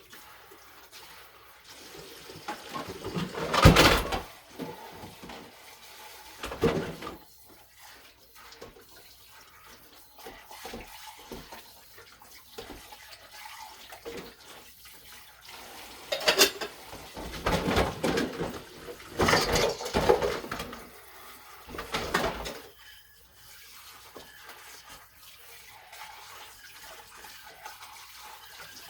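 Washing dishes at a kitchen sink. Water from the tap gushes in several short bursts, the loudest about four seconds in, with quieter splashing and handling of dishes in between.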